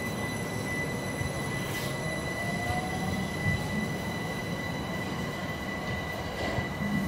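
Southern Class 377 electric multiple unit running away along the track: a steady rumble of wheels on rail, with a thin steady high-pitched whine over it.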